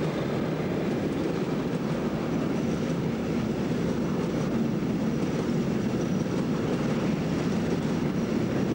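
Container freight train's flat wagons rolling past at close range: a steady, unbroken noise of steel wheels on rail.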